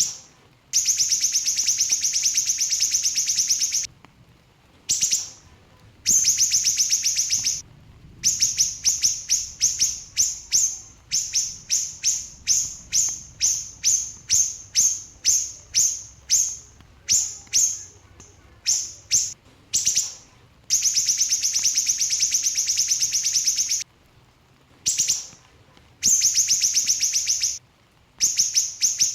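Siri-siri bird singing in rapid-fire, high chirp trains. Dense runs of two to three seconds alternate with series of separate chirps at two or three a second, broken by short pauses.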